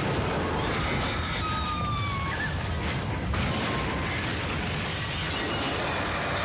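A loud, steady roar and rumble of a large fire and wreckage, with a burst of sharp cracks and pops about three seconds in and short wailing, siren-like tones over it.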